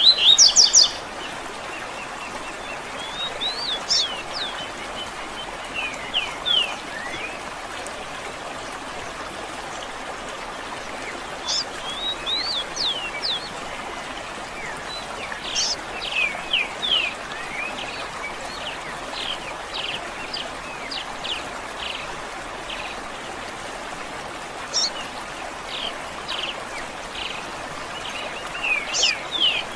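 Songbirds chirping in short, quick downward-sweeping notes, in loose groups throughout, over a steady rushing of flowing water like a stream. A loud burst of chirps comes right at the start.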